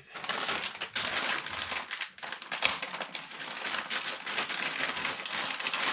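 Plastic crinkling and rustling, with many small clicks and one sharper click about halfway through.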